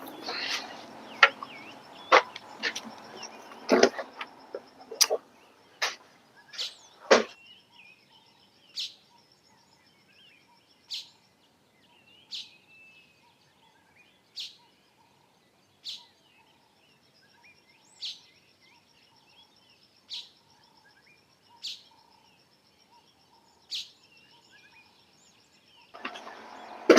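Birds chirping, one short sharp call about every two seconds, over a faint steady high-pitched whine. During the first seven seconds or so there is a haze of noise and a string of clicks and knocks, which stop suddenly.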